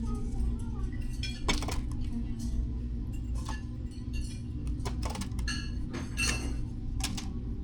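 Dishes, cutlery and glassware clinking: a dozen or so short, light clinks scattered irregularly over a steady low background hum.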